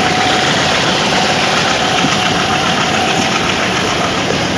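A passenger train running steadily, heard from inside a moving coach: an even, loud rumble of wheels on the rails and the carriage in motion.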